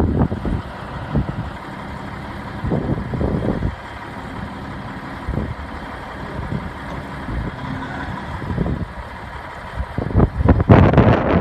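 Peterbilt 379 truck's diesel engine idling steadily. Wind buffets the microphone at the start and again near the end.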